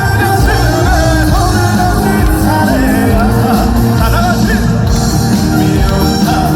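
Live amplified trot music: a male singer over a full backing band, loud and continuous, as heard from the audience.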